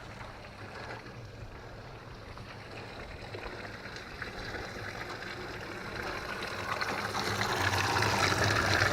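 Running storm-runoff water, a steady rushing that grows steadily louder, loudest near the end.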